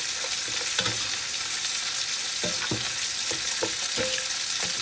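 Chicken pieces sizzling as they fry in a pot, with a steady hiss and a few light knocks as the pot is stirred.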